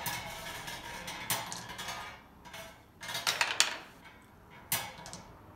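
Draw balls clicking and clattering against each other as they are stirred and one is picked out. The clicks come in irregular flurries, the loudest a little after three seconds in, with a single knock near the end.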